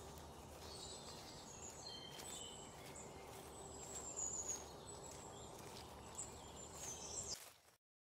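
Small birds calling with short, high, thin chirps and whistles over steady rural background noise; the sound cuts off about seven and a half seconds in.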